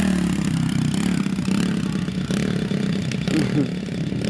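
A small motorcycle engine running at fairly steady low revs, its pitch wavering slightly with the throttle.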